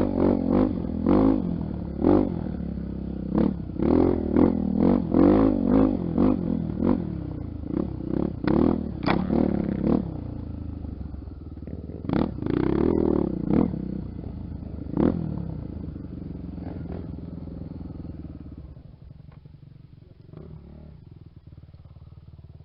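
Honda XR250 Tornado's single-cylinder four-stroke engine working under load on a short trail hill climb, blipped in quick throttle bursts about two a second, then a few longer revs. The engine sound fades over the last few seconds.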